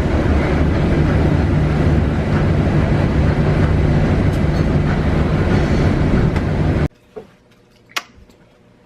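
A vehicle running, heard from on board: a loud, steady rumble with a low hum that cuts off suddenly about seven seconds in. A quiet room and a single click follow.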